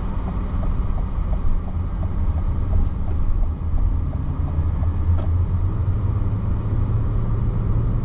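Steady rumble of a car's engine and tyres heard from inside the cabin, with the turn-signal indicator ticking about twice a second, fading out around six seconds in as the turn is made.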